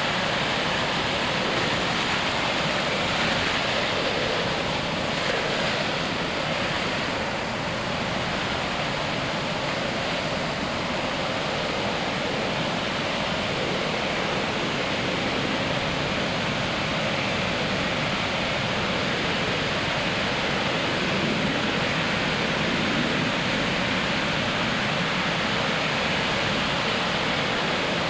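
Ocean surf breaking on a sandy beach: a steady, continuous wash of waves with no single crash standing out.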